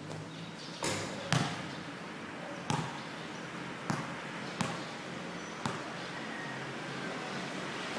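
Basketball bouncing on a hard court: six sharp bounces at uneven intervals, the loudest about a second in, over steady background noise.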